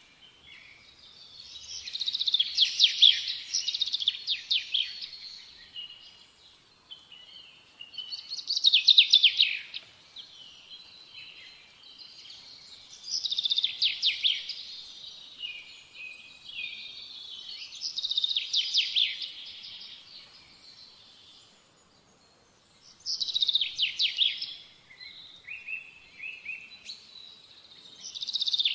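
A songbird singing: six phrases of rapid trilled notes, each a second or two long, repeating about every five seconds.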